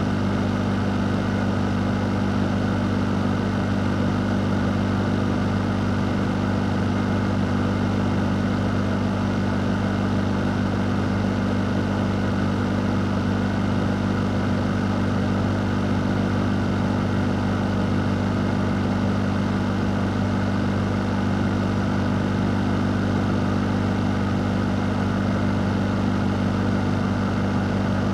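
Electric fan running steadily: an even rush of air over a low motor hum, with no change in speed or level.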